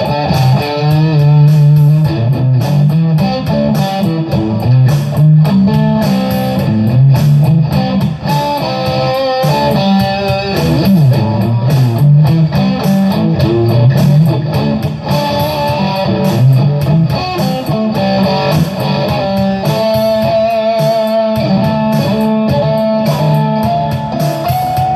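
Electric guitar playing improvised lead lines: runs of single notes moving up and down a scale over a lower moving part, ending on a long held note with a slight vibrato.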